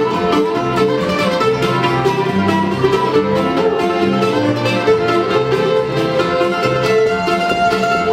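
Old-time string band playing a fiddle tune live: fiddle melody over plucked mandolin and guitar, with a steady bass pulse underneath.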